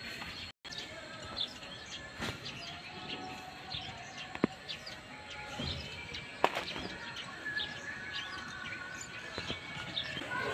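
Small birds chirping and tweeting in short, high calls throughout. A few sharp clicks come through, the loudest about four and a half and six and a half seconds in.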